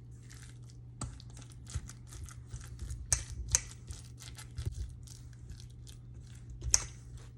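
Scattered light clicks and crinkly rustles of kitchen handling, irregular and a few sharper ones about three seconds in and near the end, over a faint steady hum.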